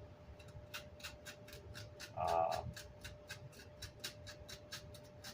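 Repeated short scratching strokes, a few a second, as chipboard and glue residue is scraped off the back of a Vox AC30 grille cloth. A short vocal sound about two seconds in.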